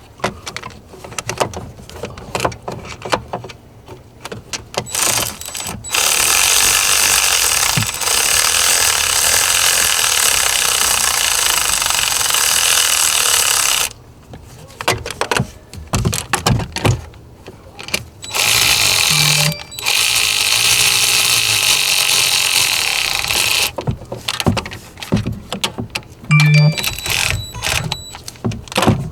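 Tools working on a car alternator mount: scattered metal clicks and knocks, with two long stretches of loud, steady noise, one lasting about eight seconds and a later one about five seconds.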